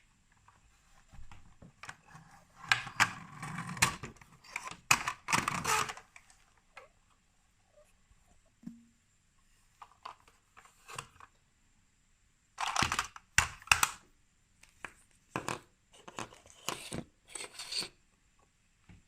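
Plastic toy pieces being handled and clicked together: irregular bursts of rustling and sharp clicks.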